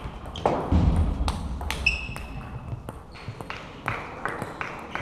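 Table tennis ball clicking off bats and table in quick, irregular knocks, with a low thud about a second in.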